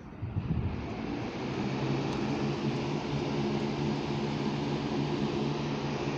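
22-inch Anderson ceiling fan starting on high speed: a whoosh of moving air with a steady motor hum, building over the first second and then running steadily.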